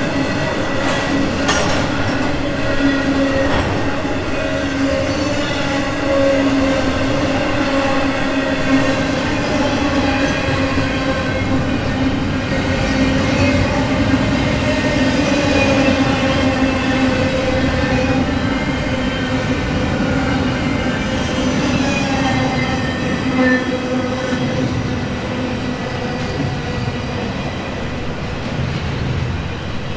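Intermodal freight cars rolling past: a steady rumble and clatter of wheels on rail, with a sustained squealing tone that slowly falls in pitch. The squeal weakens and the sound eases off near the end as the last cars move away.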